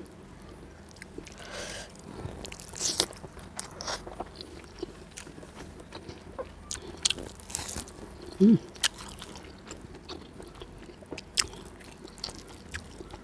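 Close-up eating sounds: wet chewing and crisp crunching, with bites into crispy fried tofu, made up of many short crackles. A brief low hum about eight and a half seconds in is the loudest sound.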